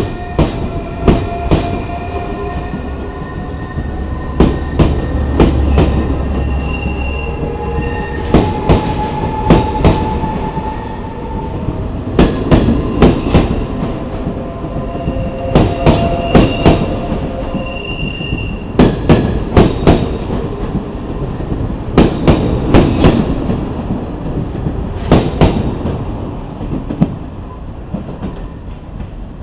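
SNCF TER 2N NG double-deck electric multiple unit rolling slowly past and away, its wheels clattering over rail joints in groups of knocks about every three seconds as each bogie passes. Thin wheel squeals and a motor whine run underneath. The sound fades in the last few seconds as the rear of the train draws off.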